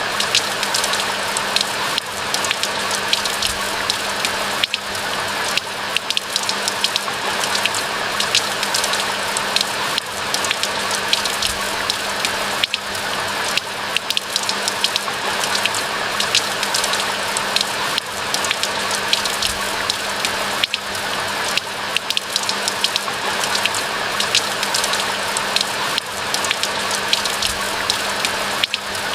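Steady rain falling in a pine forest: a dense, even hiss with many sharp individual drop ticks throughout. A faint steady low hum runs underneath.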